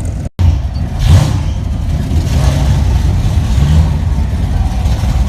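Car engine and road rumble heard from a car cruising at low speed, steady and low, with a brief louder swell about a second in. The sound drops out for a split second just after the start.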